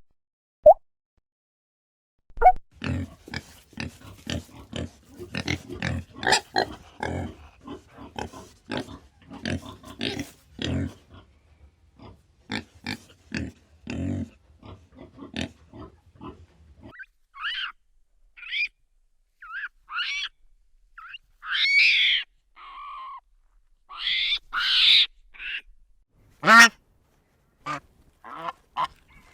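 Pigs grunting in a quick, dense run of short sounds for most of the first half, followed by a series of separate higher-pitched calls.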